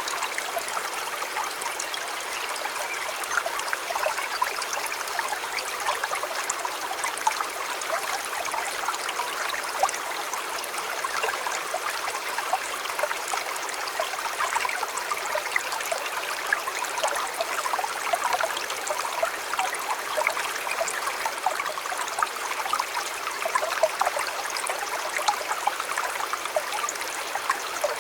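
River water flowing: a steady rushing babble, dotted with many small splashes and trickles.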